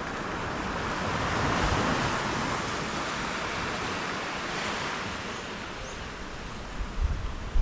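Sea waves surging and washing onto a beach, swelling about a second or two in and then easing off. Wind buffets the microphone near the end.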